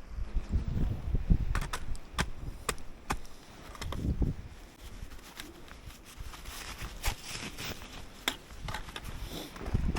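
Snowshoe steps in snow: scattered sharp clicks and crunches, with a few low rumbling swells.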